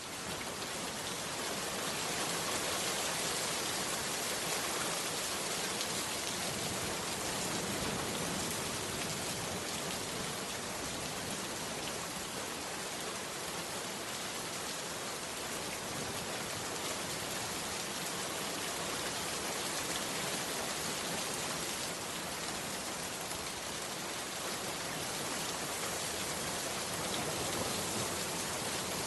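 Heavy rain falling steadily as a dense, even hiss, swelling up to full strength in the first moment.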